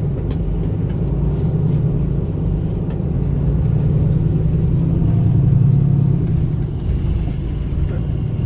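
Diesel engine of a MAN Lion's City A21 articulated city bus running under way: a steady low drone that swells and eases slightly a couple of times.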